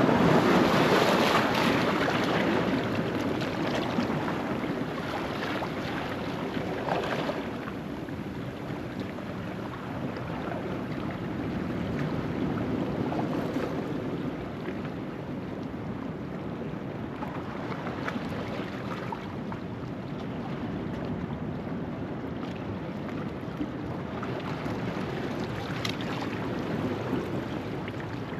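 Ocean waves washing over a rocky shoreline at low tide: one large wash loudest in the first couple of seconds, then smaller washes swelling and fading every several seconds.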